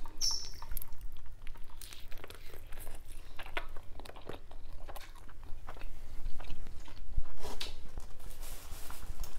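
A person chewing and crunching a mouthful of sushi roll, with many small crunchy clicks in an uneven run.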